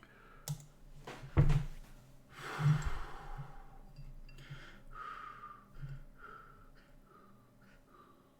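A man chugging beer: a sharp knock, a short rushing noise, then a run of regular gulps, about two a second.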